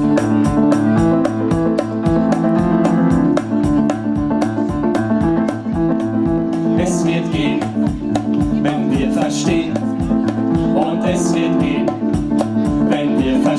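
Live band playing an instrumental song intro: sustained chords over a steady beat of about four strokes a second, with hissy percussion bursts coming in about halfway through.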